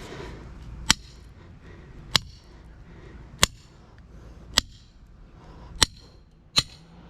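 Six hammer blows on metal, about a second apart, each a sharp ringing strike: working through an electric motor's stator to free the copper windings.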